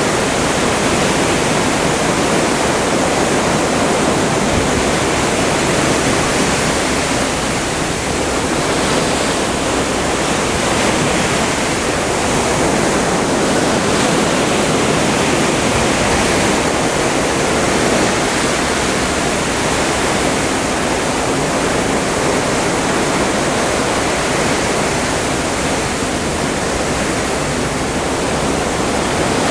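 Open Atlantic seawater rushing and washing along the side of a moving cruise ship: a steady, even rush with only slight rises and falls in level.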